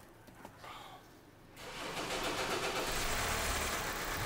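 A 2014 Hyundai Santa Fe's petrol engine cranked by its starter about a second and a half in, catching and running on. The long cranking is a sign of fuel pressure bleeding off, which the mechanic puts down to a leak in the fuel system, most likely between the fuel rail and the pressure regulator.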